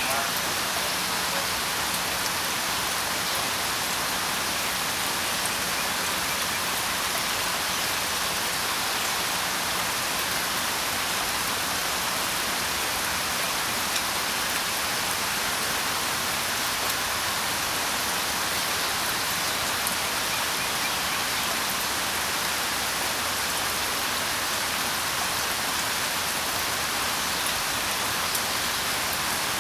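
Steady rain falling, a dense, even hiss with many small drops pattering.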